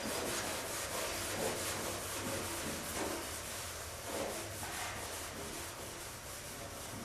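Sandpaper rubbed by hand over old paint on painted sheet metal in repeated back-and-forth strokes, scuffing off the shine.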